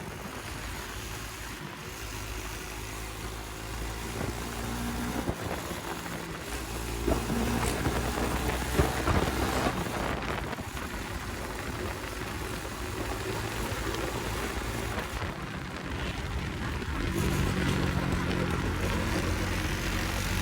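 Motorcycle engine running under way, its note stepping up and down several times, with wind noise on the microphone.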